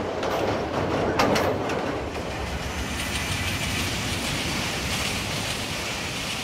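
Passenger train running on the rails: wheels clacking over rail joints in the first couple of seconds, then a steady rush of the train rolling past.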